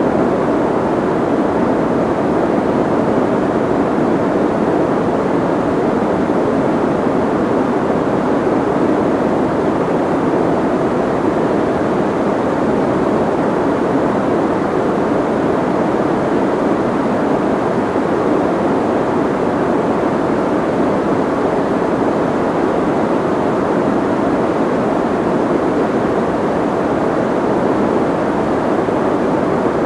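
Steady soft white noise: an even, unbroken rushing hiss, muffled, with most of its weight in the low-middle range and little high treble.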